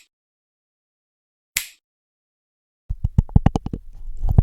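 A single finger snap about a second and a half in, a short sharp crack. From about three seconds in comes a fast run of irregular clicks over a low rumble.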